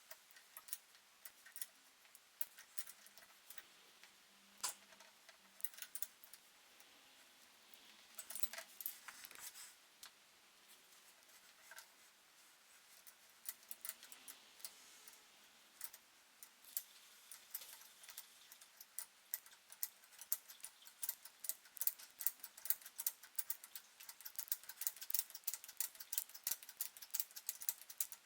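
Light metallic clicks and ticks of bicycle parts and hand tools being handled, scattered at first and becoming a quick, dense run of clicks in the last third.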